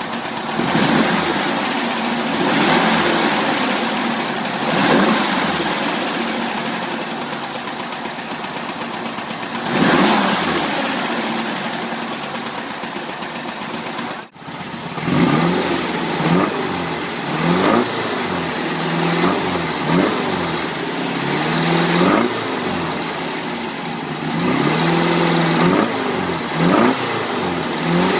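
Rebuilt fuel-injected 2.0-litre air-cooled flat-four of a 1974 Porsche 914 running and being revved up and down, with a brief break about halfway through. In the second half it is blipped in quick, repeated rises and falls.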